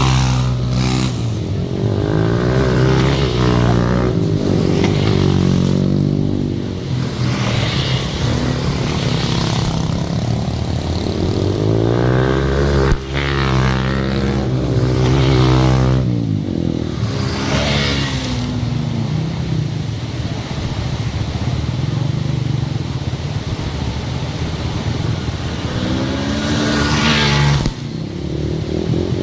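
Motor vehicle engine running under load, its pitch climbing and dropping again and again as it speeds up and shifts.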